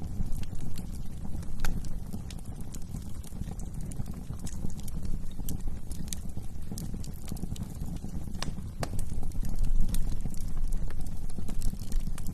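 Wood fire burning in a fireplace: a steady low rumble of flames with irregular sharp crackles and pops, a few louder ones scattered through.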